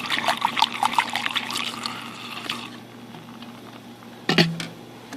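Petrol being poured into a container: gurgling and splashing that stops about two and a half seconds in. A short sharp sound follows near the end.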